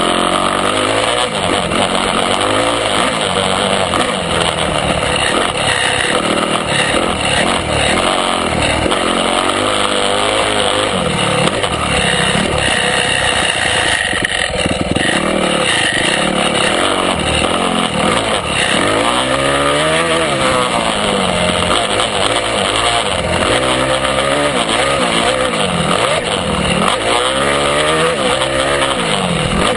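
Dirt bike engine running hard under riding, its pitch rising and falling again and again as the throttle opens and closes and it shifts through gears.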